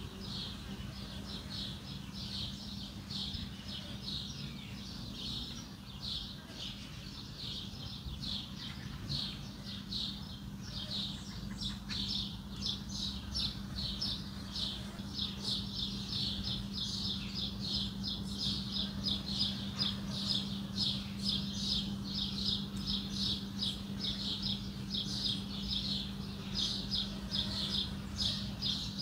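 Birds chirping continuously, short high chirps several to the second, over a steady low hum.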